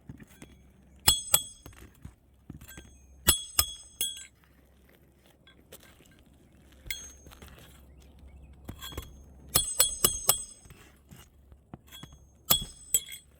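Roofer's hatchet driving roofing nails into a replacement 3-tab asphalt shingle. The sharp, ringing metal strikes come in four groups of a few blows each, with pauses between the nails.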